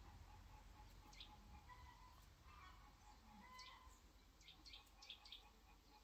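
Faint bird chirps: short falling chirps, one about a second in and a quick run of five or six in the second half, over a faint low rumble.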